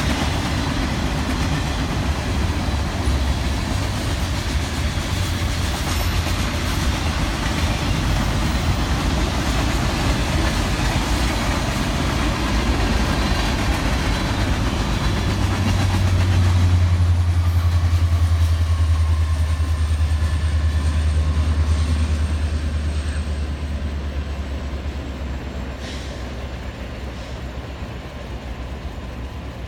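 Train rolling past: a steady rumble of wheels on rail, with a deep hum that swells in about halfway, is loudest shortly after, then fades toward the end.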